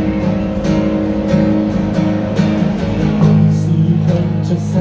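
Live band music in an instrumental passage without singing: guitars strumming chords over sustained notes.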